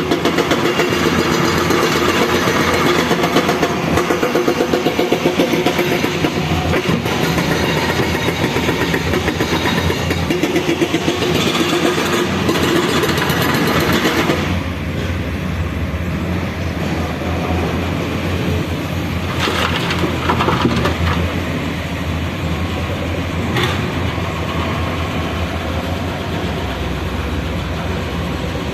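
Heavy diesel engine of earth-moving machinery running with a fast, throbbing beat; it is loudest for the first half and then drops to a lower, duller note, with a few short knocks in the second half.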